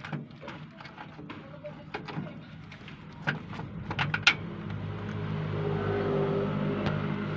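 Sharp metal clinks and knocks from hands and tools working at a starter motor's mounting under a vehicle. About halfway through, a motor vehicle's engine starts to be heard as a steady hum that grows louder.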